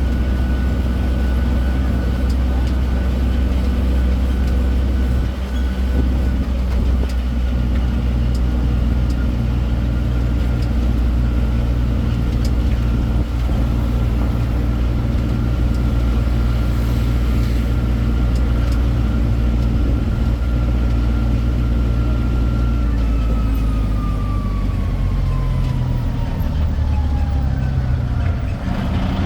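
Tourist road train's engine running steadily with a thin high whine over it; over the last several seconds the whine and the engine note fall in pitch as the train slows.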